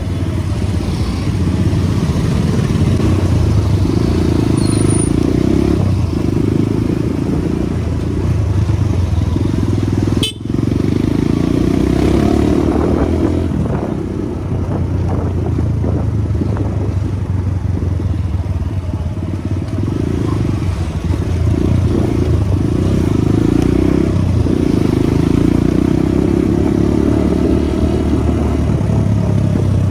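Motorcycle engine running steadily while riding, with road and wind noise, cut by a brief dip in the sound about ten seconds in.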